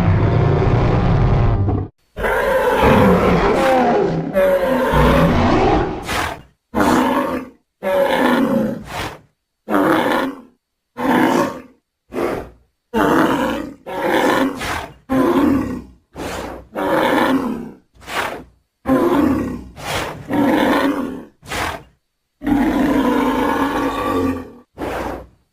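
Designed creature sound effect for a western black rhinoceros, mixed from rhinoceros, triceratops and bull recordings. It is a string of about twenty separate roars, bellows and grunts, each cut off cleanly into silence. The calls are longest at the start, shorter and quicker through the middle, and one long call comes near the end.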